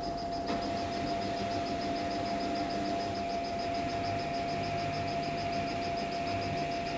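Samsung Eco Bubble washing machine running mid-cycle on a cotton wash, its drum motor giving a steady whine over a low hum, with a faint fast ticking above it.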